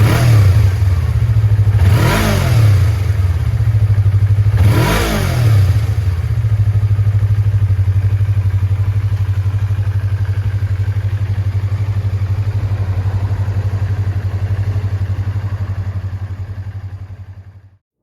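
Yamaha YZF-R25's 249 cc parallel-twin four-stroke engine idling, blipped twice in quick rev-ups about two and five seconds in, then settling back to a steady idle that fades out near the end.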